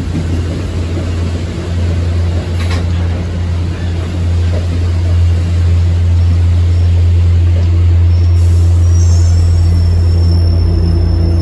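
MBTA commuter rail train rolling past, single-level and bilevel passenger coaches, a loud steady low rumble that grows louder as the train goes by. A faint high-pitched wheel squeal joins about eight seconds in.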